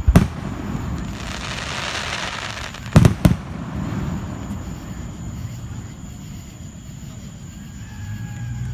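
Aerial fireworks going off at a distance: a pair of sharp bangs at the start, a noisy rush in between, another pair of bangs about three seconds in, and a single bang at the very end.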